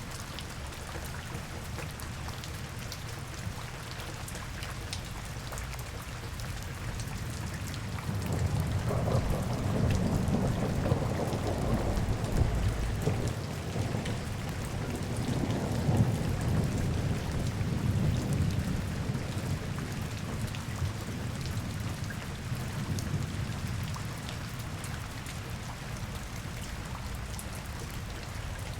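Steady rain falling and pattering on surfaces, with a long low roll of thunder that swells in about a third of the way through, rumbles for several seconds and fades away.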